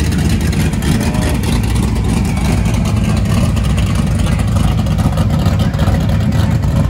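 Early-1970s Plymouth Barracuda muscle car's engine rumbling steadily through its exhaust as it rolls slowly past at low speed.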